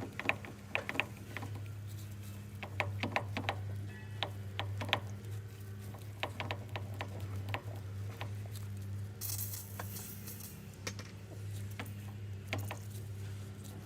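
Irregular metallic clicks and taps of hand tools on a mini excavator's fuel filter fittings during bleeding of the fuel system, over a steady low hum. A short hiss comes about nine seconds in.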